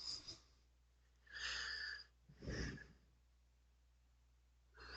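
Two faint breathy sounds from a person, the first about a second and a half in and a shorter one about a second later, against near silence.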